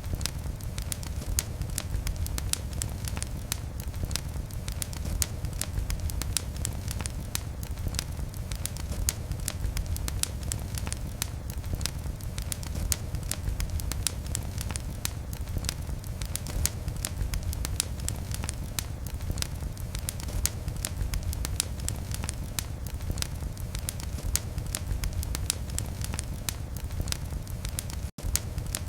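Fire in a fireplace burning with a steady low rumble and dense, irregular crackles and pops. The sound drops out for an instant near the end.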